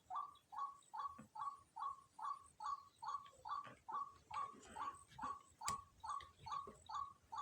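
A bird call repeated as short, evenly spaced notes, about two and a half a second, with one sharp click about two-thirds of the way through.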